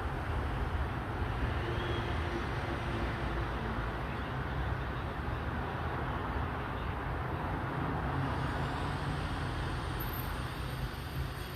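Steady low rumbling background noise, even throughout, of the kind heard from road traffic.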